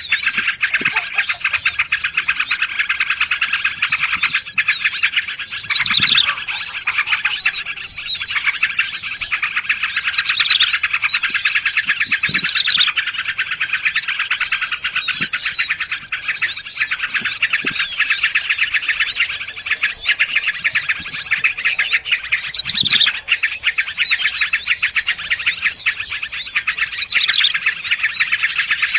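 Dense chorus of several small songbirds calling at once, an unbroken mass of overlapping chirps and chattering trills: a bird-lure recording layering the noisy chatter of yellow-vented bulbuls (trucukan) with prinia and other small forest birds.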